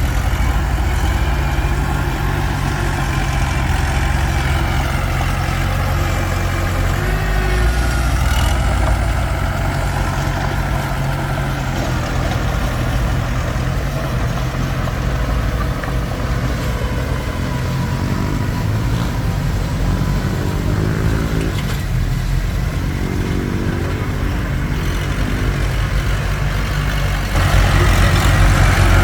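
Komatsu D21P bulldozer's diesel engine running steadily under load, getting louder near the end.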